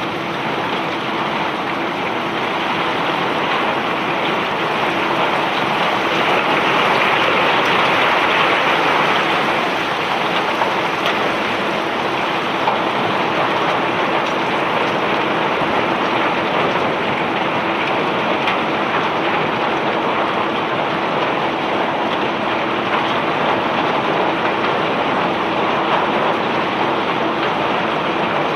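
Self-unloading barge discharging bulk iron ore and river rock: a steady, dense rattling hiss of rock pouring off the unloading conveyor, with a faint steady machinery hum beneath.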